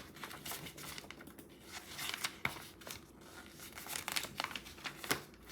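A book being handled, its paper or plastic-covered pages crinkling and rustling, with irregular sharp crackles throughout.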